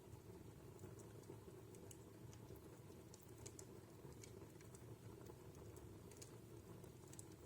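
Wood fire in a fireplace crackling faintly: a dozen or so irregular small pops and ticks over a low, steady rustle.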